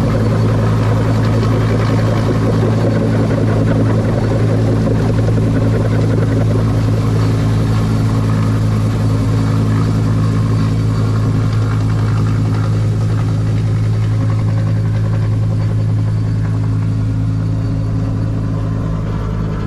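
Huey helicopter running steadily: a loud, constant turbine and rotor drone with a deep hum, easing slightly near the end.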